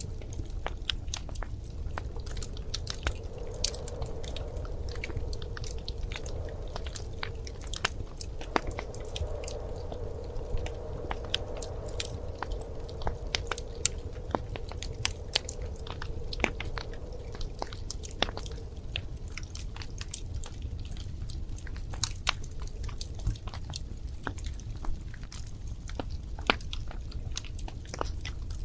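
Wood fire crackling in a fireplace: irregular sharp pops and snaps over a steady low rumble of the burning logs. A faint steady tone sits under the crackle from a few seconds in until about two-thirds of the way through.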